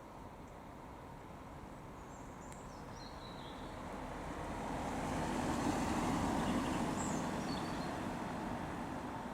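A car driving past, its engine and tyre noise building to a peak about six seconds in and then fading away.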